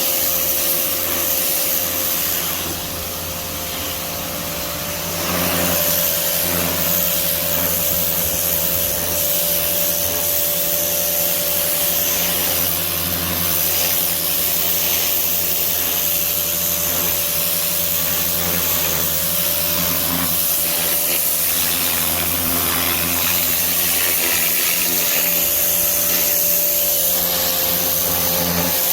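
Pressure washer running and spraying water: a steady motor-pump hum under a loud hiss of spray. It goes briefly quieter about three seconds in, then back to full.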